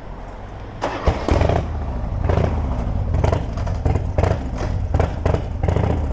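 Harley-Davidson motorcycle's V-twin engine coming in loudly about a second in and running steadily, with repeated sharp clattery peaks over the low engine note.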